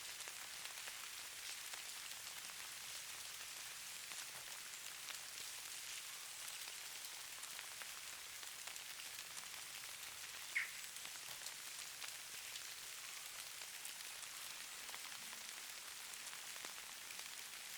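Faint steady patter of falling precipitation on surfaces: a fine hiss with many tiny ticks. One brief, sharper high-pitched sound stands out about ten and a half seconds in.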